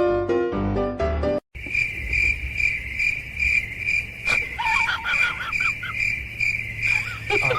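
Piano music that cuts off about a second and a half in, followed by a cricket chirping steadily at about three chirps a second. A few short, wavering squeaky calls come in around the middle and again near the end.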